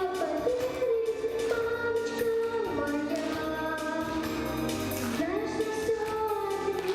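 Children's vocal studio singing long held notes that slide between pitches, over musical accompaniment.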